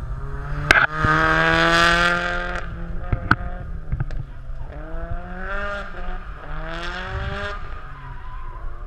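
Drift car's engine revving hard in three bursts, each climbing in pitch, with tyre noise over the first and longest burst. Two sharp pops cut through, the first and loudest about a second in.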